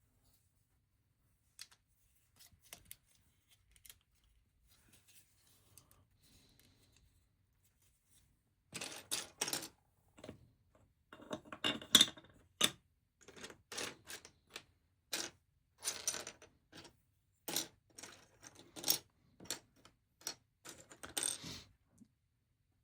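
Loose plastic LEGO pieces clicking and clattering as a hand rummages through a pile of them in search of a part. A few faint clicks at first, then dense rattling from about nine seconds in until shortly before the end.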